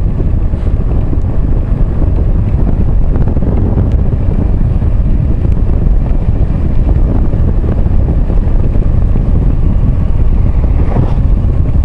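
Riding motorcycle: steady wind rush on the microphone over the bike's running engine and road noise, strongest in the low rumble.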